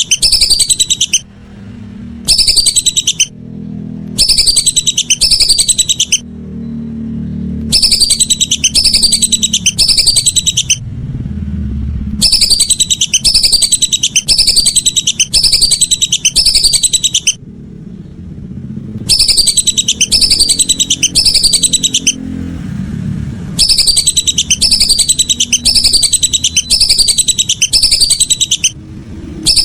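Lesser whistling duck (belibis) calls: rapid runs of high, thin whistles, each note sliding down in pitch, repeated in bursts of a few seconds with short pauses between, as played from a looped lure recording. A low rumble sits underneath.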